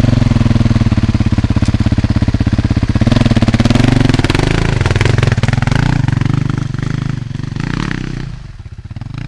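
Suzuki DR-Z400's single-cylinder four-stroke engine running loud with a pulsing beat, revved up about three seconds in as the dirt bike climbs a stone step, then growing quieter near the end.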